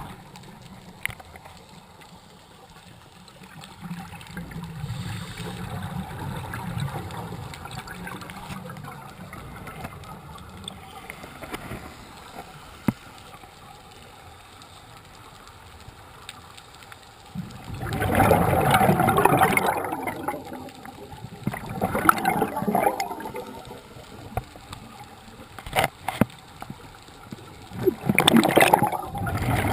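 Scuba diver's exhaled bubbles rushing up from a regulator, heard underwater. There is a faint watery hiss at first, then three loud gurgling bursts in the second half.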